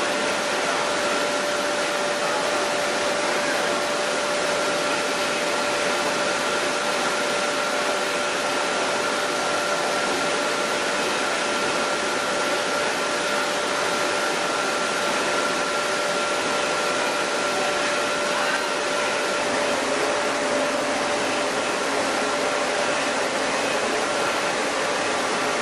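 Chili powder milling machinery running steadily, a loud even rushing noise with a steady whine in it; a second, higher whine stops about three-quarters of the way through.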